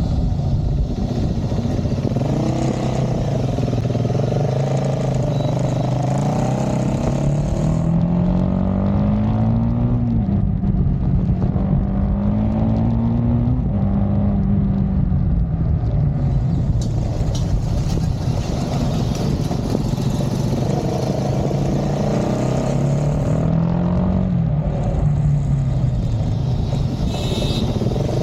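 Triumph Speed 400's single-cylinder engine and exhaust under way, the pitch climbing through the gears several times, with wind rushing over the microphone.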